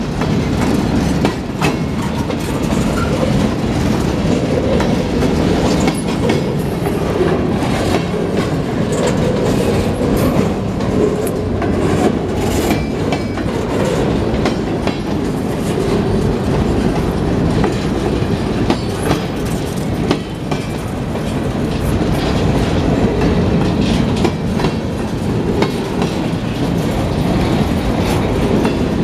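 Empty freight cars (bulkhead flatcars and centerbeam lumber cars) rolling past close by: a steady, loud rumble of steel wheels on rail, with frequent sharp clicks and clanks as the wheels pass over the rail joints.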